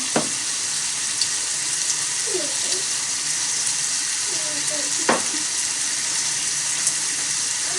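Food sizzling steadily in a small iron pot over a campfire stand, with a couple of sharp taps, once near the start and once about five seconds in.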